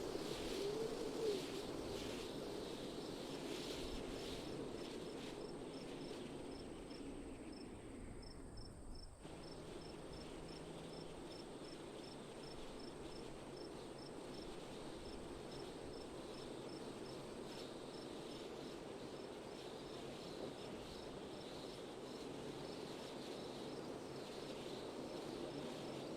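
Steady wind noise with a cricket chirping at an even, rapid pace high above it.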